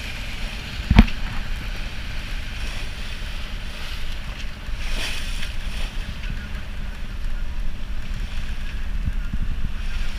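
Wind buffeting the microphone aboard a yacht, over a steady low rumble and water noise, with a sharp thump about a second in.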